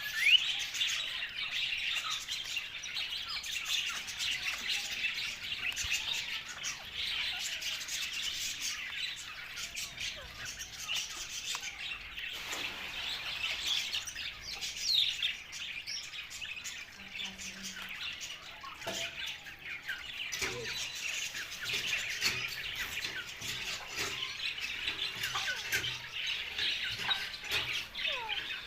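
Ringneck parrot (rose-ringed parakeet) chattering and chirping without pause, with many short clicks scattered through it.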